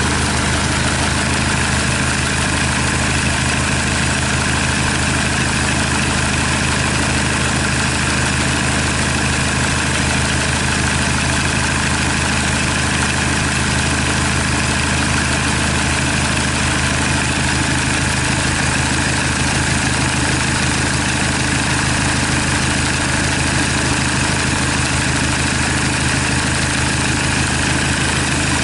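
Kia D4CB 2.5-litre four-cylinder diesel engine, removed from the vehicle, idling steadily with an even, unchanging note.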